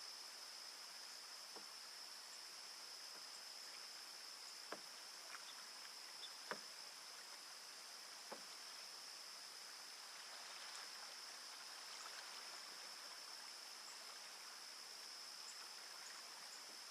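Faint sounds of a canoe paddle working in calm water: a few soft knocks and drips, clustered around the middle, over a steady high insect drone.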